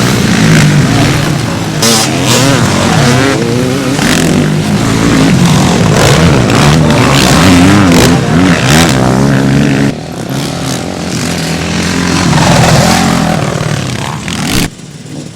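Several motocross bikes racing, their engines revving up and down in pitch as they ride. The sound drops abruptly about ten seconds in and again near the end.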